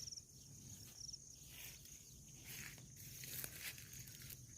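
Faint insect trilling: a steady high-pitched buzz with short pulses every second or so, and some rustling noises in the middle.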